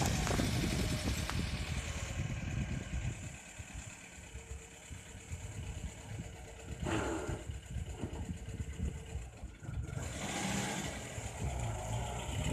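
Freshly overhauled GAZ-21 Volga's four-cylinder engine running on its first trial after a full rebuild, quieter through the middle and louder again near the end.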